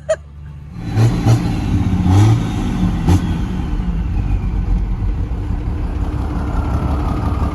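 A P-pumped 24-valve Cummins diesel engine comes in about a second in with a few sharp revs, then runs steadily. A faint falling whine rises above it later on.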